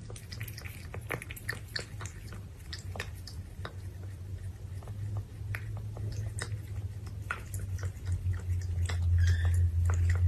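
A kitten lapping water with its tongue: quick, irregular wet clicks, a few a second. Under them runs a low steady hum that grows louder near the end.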